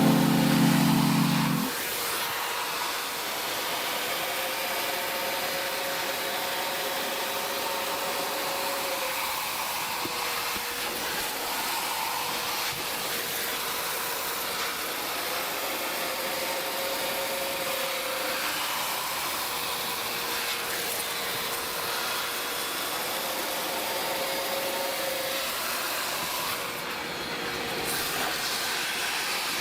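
A small motorised detailing tool, such as a polisher, sander or vacuum, running steadily with a continuous hiss and a slightly wavering hum.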